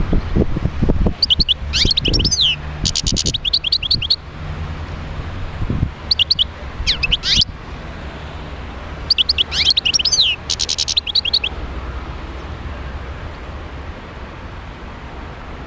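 European goldfinch singing in three bursts of rapid twittering chirps and trills separated by short pauses. A few low knocks come in the first two seconds.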